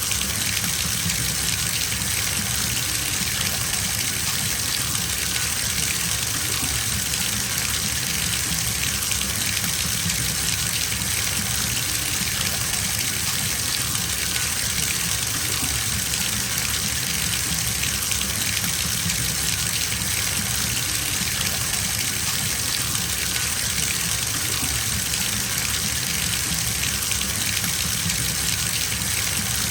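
Bathtub filling from the tap: water gushing steadily into the tub without a break.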